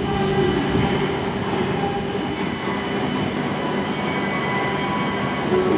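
W7 series Shinkansen standing at rest, its onboard equipment giving a steady hum with several held tones.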